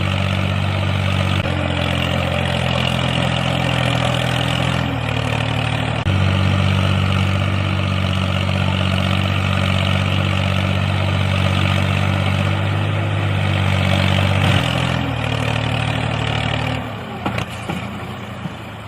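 Small single-cylinder-style DIY mini diesel engine running steadily, its speed shifting slightly a few times, then cutting off near the end.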